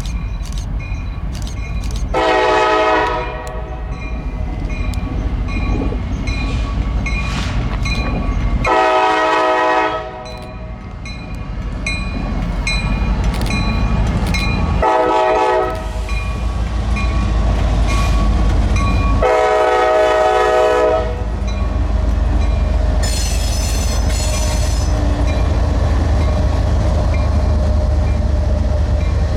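A freight locomotive's five-chime K5LA air horn sounds the grade-crossing signal, long, long, short, long, as an EMD SD40E with a 16-645 diesel leads the train in. A bell dings steadily through the first half, the engine and train rumble grow louder as they pass, and a brief high squeal comes near the end.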